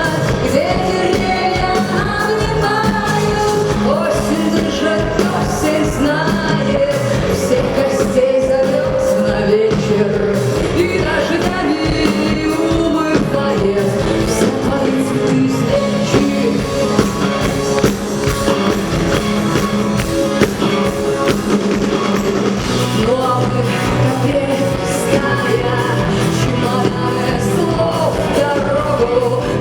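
Live band playing a song with a woman singing the lead, over a steady drum beat and bass.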